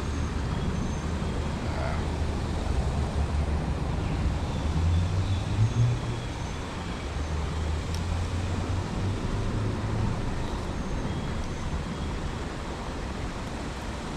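Steady low rumble of road traffic, with a few faint, short high chirps.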